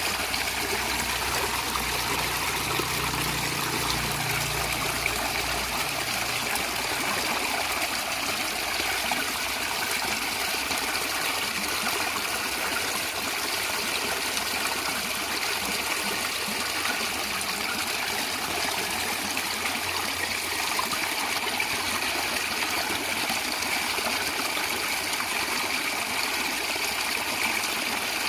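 A stream of water flowing and gurgling over stones, a steady splashing rush with no break.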